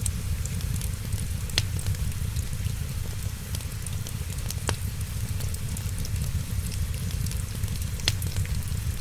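Wood fire in a fireplace crackling over a steady low rumble, with scattered small ticks and three louder sharp pops spread through.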